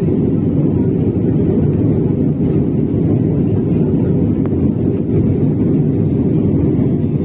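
Steady low rush of jet airliner cabin noise, engines and airflow heard from inside the passenger cabin, during the descent with the aircraft banking right.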